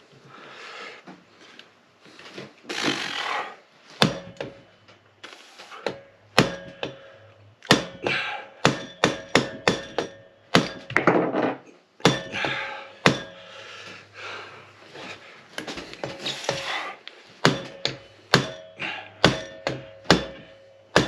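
Hammer tapping on the parts of a seized 1973 Honda CB450 engine to break it free: many sharp knocks in irregular runs, starting about four seconds in, with short bursts of noise between them.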